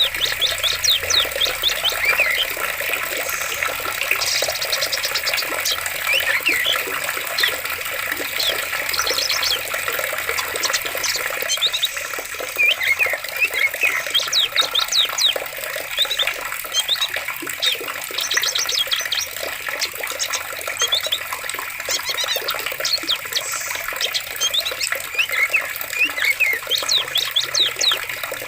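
Steady rush of flowing water, with several birds chirping and trilling over it throughout.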